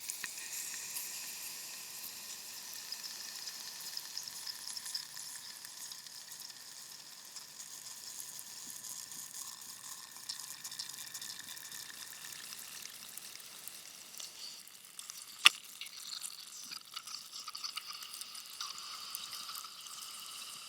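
Steady high hiss of white noise with a light crackle running through it, and a single sharp click about fifteen seconds in.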